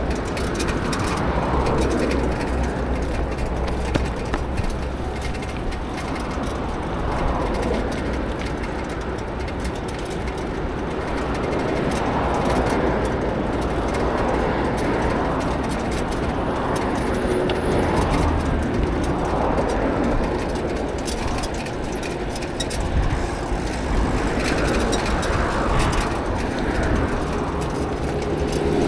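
Riding noise from a bicycle on the move: a steady rush of wind and tyre noise that swells and eases every few seconds.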